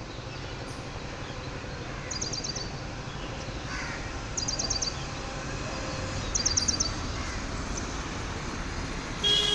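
Birds calling: three short series of rapid high notes, about two seconds apart, over steady background noise.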